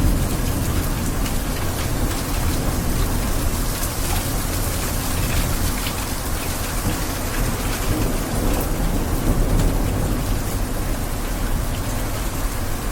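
Steady rain with many small drop ticks over a low rumble, like distant thunder.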